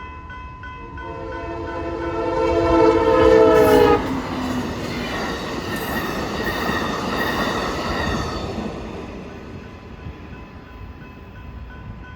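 Amtrak passenger train approaching a grade crossing, sounding its chord horn, which grows louder and drops in pitch as the locomotive passes about four seconds in. Then comes the rumble of the train rolling by, fading over the next few seconds, with crossing bells ringing faintly underneath.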